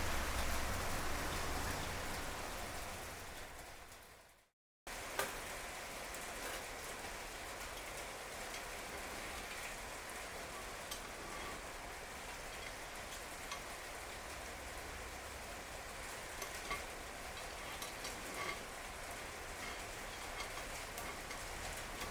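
Wood fire crackling in a fire pit: a steady hiss with scattered sharp pops every second or two. A louder, rumbling noise fades out over the first few seconds before it, broken off by a short silent cut.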